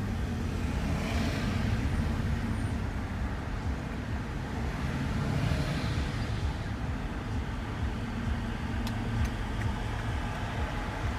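Steady engine and tyre rumble of a van driving on the road, with two swells of road noise, about a second in and again around five seconds in.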